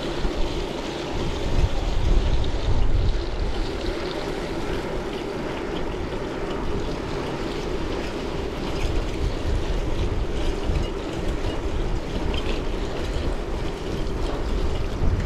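Wind buffeting the microphone of a camera on a moving bicycle, with steady road and tyre rumble from riding.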